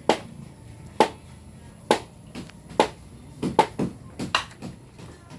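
A series of sharp knocks, about one a second at first, then several in quicker succession in the second half, like a hand tool striking wood or bamboo.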